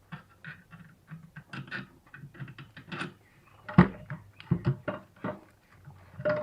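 Bolts and hand tools being handled: a run of small metal clinks and knocks, with a sharp knock about four seconds in and a few heavier knocks after it.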